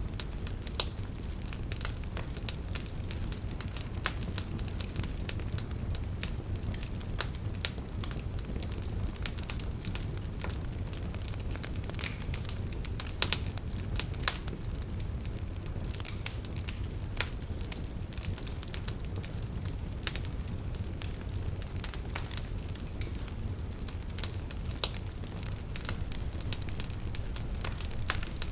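Wood fire burning in a fireplace: a steady low rumble of flames under frequent sharp crackles and pops, with a few louder snaps.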